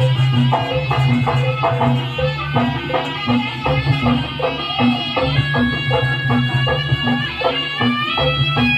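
Javanese traditional music of the kind played for trance dances: hand drums and a low beat struck a little under twice a second, under a sustained, reedy wind melody.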